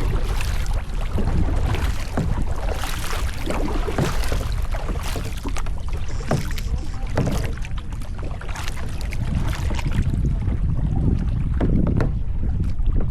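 Kayak paddle strokes splashing and dripping in the water about once a second, over a steady low rumble of wind on the microphone.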